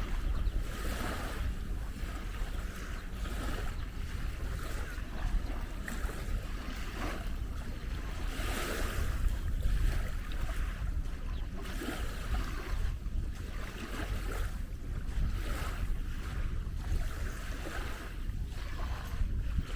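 Wind buffeting the microphone: a steady low rumble under an irregular outdoor hiss that swells and fades every second or so.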